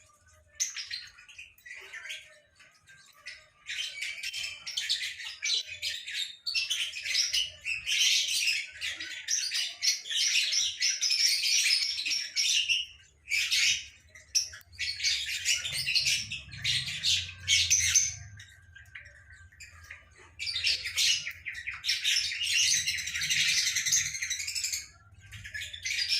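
Lovebirds chattering with rapid, high chirps and squawks, in long runs broken by a few short pauses.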